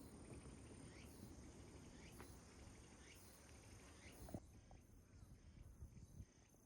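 Near silence: faint background hiss with a thin steady high tone and a few soft chirps or ticks, fading toward the end.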